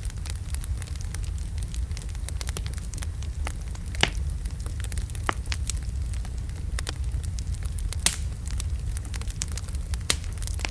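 Wood logs burning in a fireplace: a steady low rumble of flame with frequent crackles and sharp pops, the loudest about four, eight and ten seconds in.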